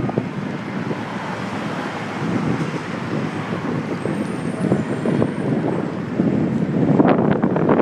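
Wind buffeting and road rattle on a handlebar-mounted phone microphone during a bike ride through city traffic, turning rougher and choppier near the end.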